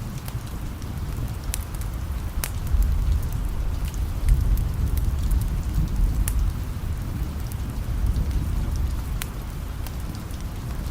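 Steady rain with a low rumble of distant thunder that swells a few seconds in. A wood fire crackles now and then, in sharp single pops.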